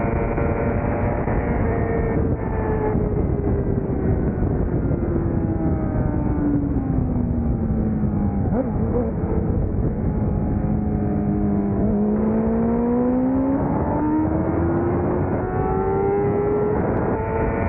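600 cc race motorcycle engine under wind noise. Its note falls steadily for several seconds as the bike slows, holds low for a few seconds, then climbs back up as it accelerates again.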